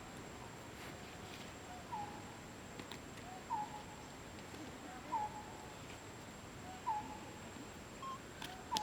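An animal calling: a short, dipping whistle-like call, each with a fainter lower note just before it, repeated five times about every one and a half seconds.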